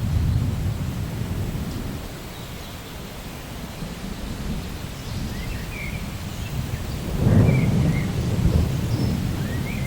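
Thunder rumbling over steady rain. The rumble eases after the start and swells again about seven seconds in.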